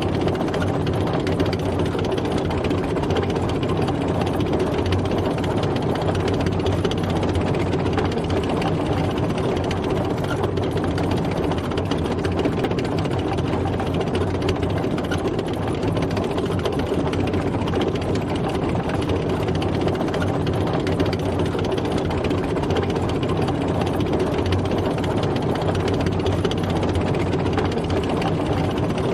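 Tank driving, its engine running steadily without change of pace.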